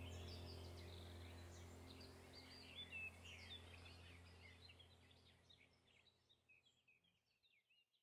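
Faint birds chirping over a steady low hum, the whole sound fading out to silence.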